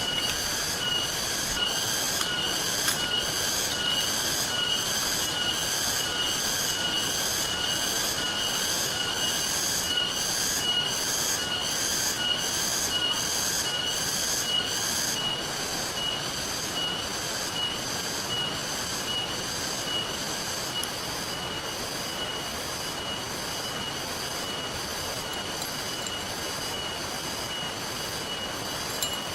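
Steady rush of rain and river water, with a high-pitched sound pulsing evenly about one and a half times a second over it, growing fainter after about halfway.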